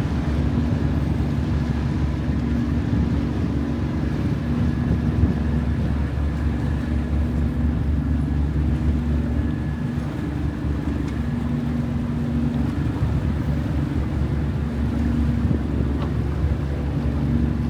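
River cruise boat's engine running with a steady low drone and a hum that comes and goes, as the boat comes in to dock.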